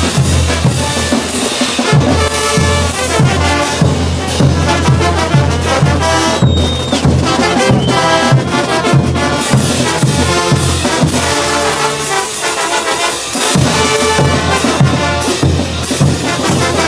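Bolivian brass band playing a morenada: trumpets and trombones over a steady, regular drum beat. The low end drops away briefly a little past the middle, then the full band returns.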